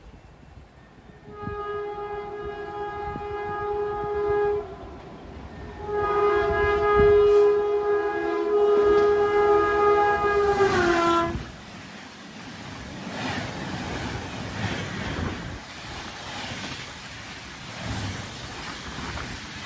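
Locomotive horn sounding two long chord blasts, the second one's pitch dropping near its end. The steady rushing and rattling of a passing train follows.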